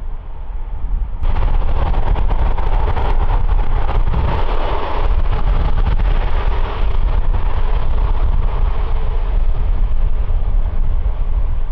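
Airbus A350's Rolls-Royce Trent XWB jet engines running loud at close range, with heavy wind rumble on the microphone. The jet noise jumps up abruptly about a second in and stays steady and loud.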